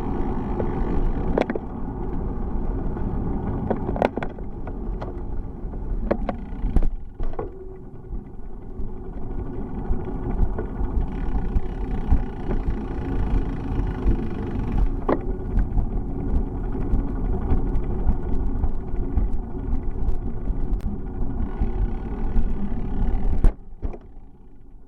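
Steady low rumble of wind and road noise heard while riding a bicycle, with scattered sharp clicks and rattles. It drops off suddenly near the end.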